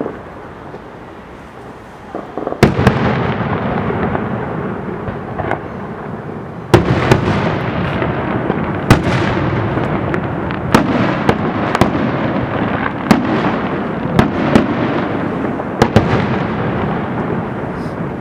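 Fireworks going off: a string of sharp bangs, about eight of them, over a dense continuous noise of further bursts that swells about three seconds in and again near seven seconds.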